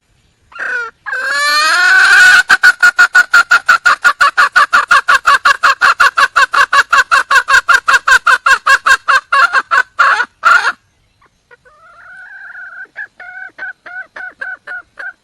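Junglefowl hen calling for a male: a long, fast run of repeated clucking notes, about five a second, breaking off near eleven seconds, then a quieter second run starting about a second later.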